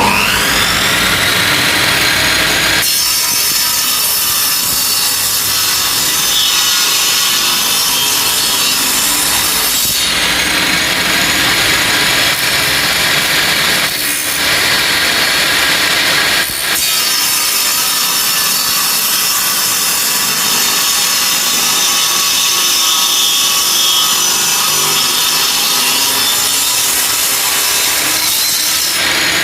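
Electric circular-saw machine running at full speed under load, with a continuous high-pitched hiss. It rises in pitch as the motor spins up at the start and briefly dips a few times.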